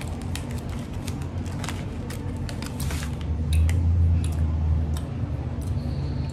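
People chewing a soft chocolate cookie close to the microphone: scattered small mouth clicks and smacks over a steady low hum.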